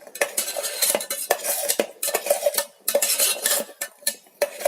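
A spoon stirring scrambling eggs in the electric kettle's pot, scraping and clinking against the metal in quick, irregular strokes.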